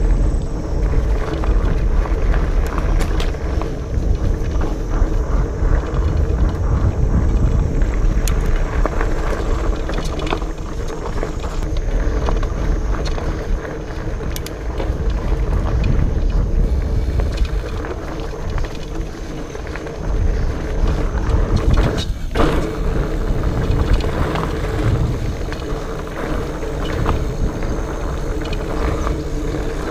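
Specialized Fatboy fat bike ridden over a rough, rocky dirt trail: the wide knobby tyres rumble steadily over the ground, with occasional knocks and rattles. Wind buffets the microphone.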